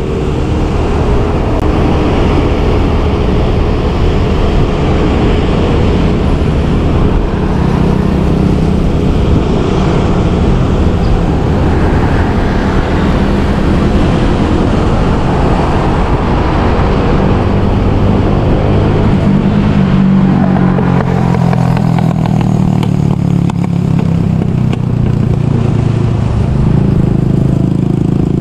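A motorbike engine running under way, its pitch shifting with the throttle, over a steady rush of road and wind noise.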